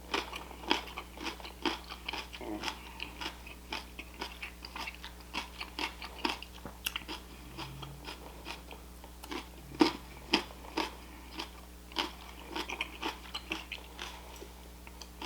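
A person chewing and crunching food close to the microphone, with many irregular sharp crunches and wet mouth clicks.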